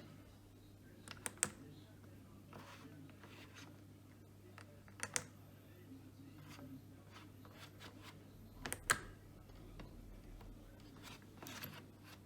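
Miele Professional PW6065 Plus washing machine running quietly: a low steady hum with a few sharp clicks, a pair about a second in, single ones about five and nine seconds in, and a softer one near the end.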